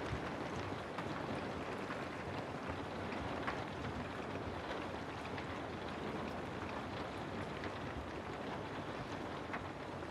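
Steady rain ambience, an even hiss with scattered faint drop ticks.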